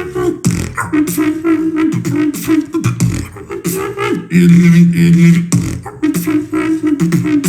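Solo beatboxing: rapid vocal drum hits over a hummed, moving bassline. About four seconds in, a loud held low bass note lasts about a second.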